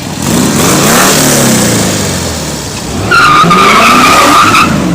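A car engine revving up and dropping back. About three seconds in, a loud steady high squeal of spinning tires, as in a short burnout, while the engine climbs again.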